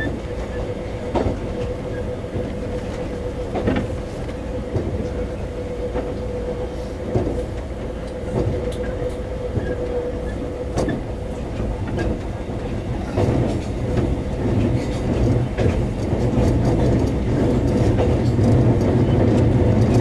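Taiwan Railway EMU400 electric commuter train running, heard inside a passenger car: a steady low rumble with a constant whine and scattered clicks of the wheels over the track. The rumble grows louder in the last third.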